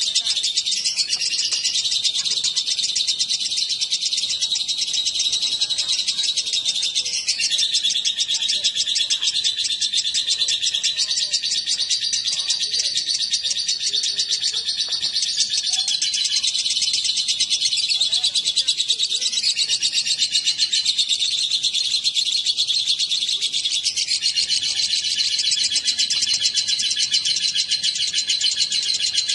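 Lovebirds chattering without a break in a fast, high-pitched stream of chirps.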